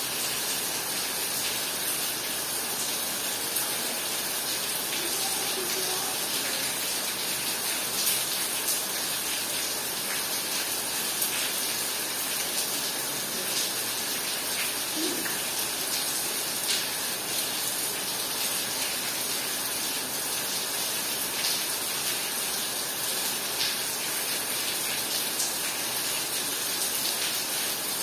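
Heavy rain pouring steadily, with a few brief sharper ticks of drops scattered through it.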